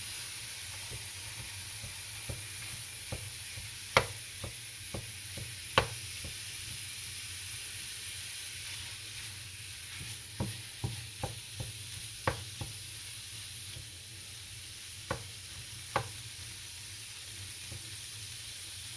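Ground beef frying in a pan with a steady sizzle, while a utensil breaks it up with sharp knocks and scrapes against the pan, a quick run of them about ten to twelve seconds in.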